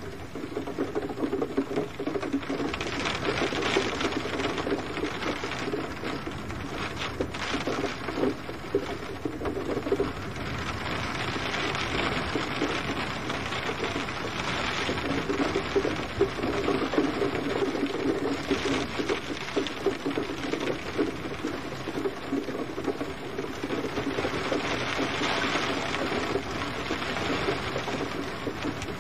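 Gentle rain falling steadily, a dense patter of drops that swells and eases a little every several seconds.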